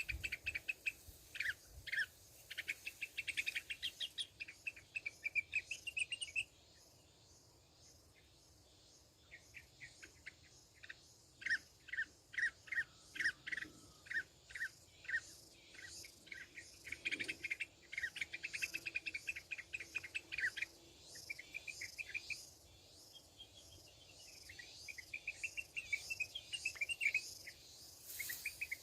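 Sooty-headed bulbuls calling: runs of short, sharp chirps and brief warbling phrases, with a pause of a few seconds about a quarter of the way in.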